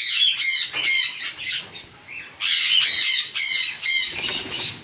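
Caged parrots squawking: runs of harsh, rapid calls, several a second, with a short break just after the middle.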